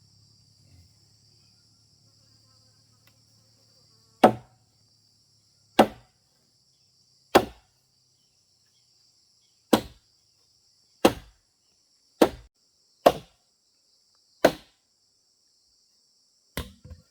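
A tool striking wood in single sharp blows, eight hard strikes one to two seconds apart starting about four seconds in, then a lighter one near the end. Insects chirr steadily throughout.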